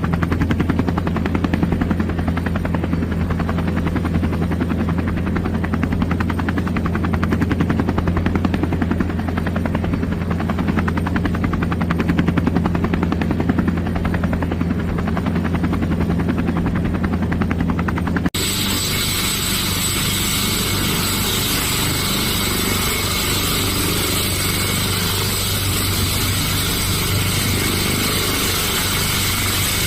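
Helicopter running: steady rotor and engine drone with fast, even rotor pulsing. About eighteen seconds in, it cuts abruptly to another recording of the engine, steadier and hissier, with less pulsing.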